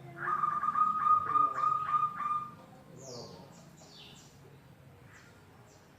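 Perkutut (zebra dove) cooing: a loud run of quick, evenly repeated notes lasting about two and a half seconds. Fainter, quick falling chirps of smaller birds follow.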